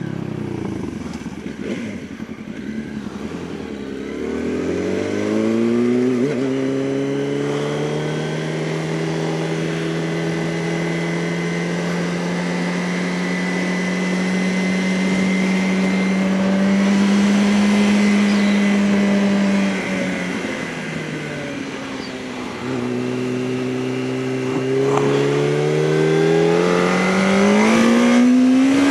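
Motorcycle engine on the road, slowing at first, then pulling with its pitch climbing slowly for about fifteen seconds. The throttle closes and the note drops about two-thirds of the way through, then it climbs again near the end.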